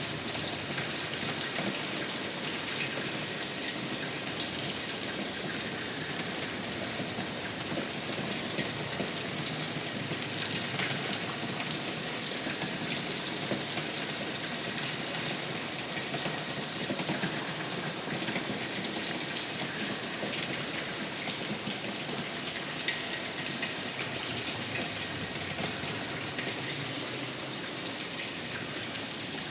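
Steady heavy rain: a dense, even hiss of falling water, with many small drop ticks through it.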